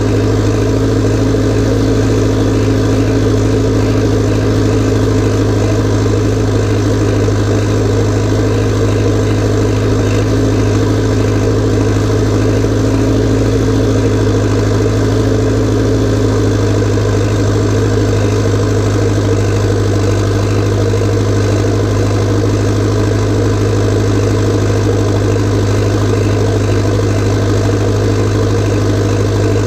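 Massey Ferguson tractor diesel engine running at a steady speed, a loud, even low drone with no revving.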